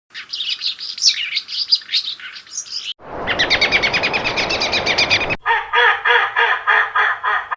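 Recorded bird songs played back to back, each starting and stopping abruptly: first rapid, varied chirping, then a fast even trill of about ten notes a second over a hiss, then a call of evenly repeated notes about four a second.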